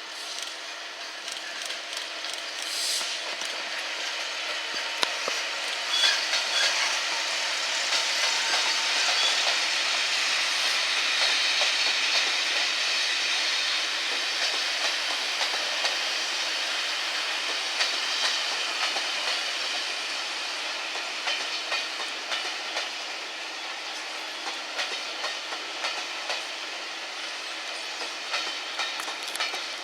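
Train rolling past on the rails, its wheels clicking over the rail joints. It grows louder to a peak about ten to twelve seconds in, then slowly fades.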